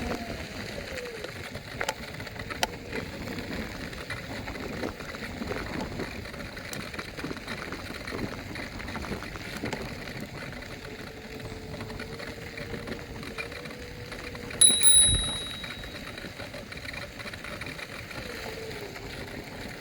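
Electric scooter riding: a faint motor whine falls in pitch at the start, holds steady, then dips again near the end, over rolling noise and small rattling clicks. About two-thirds of the way through, a single bright bell ding rings out and dies away over about a second; it is the loudest sound.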